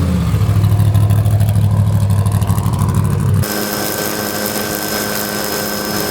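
Trophy truck engine running loud with a rapid low pulse, then an abrupt cut about three and a half seconds in to a different, steadier engine sound with a thin high whine.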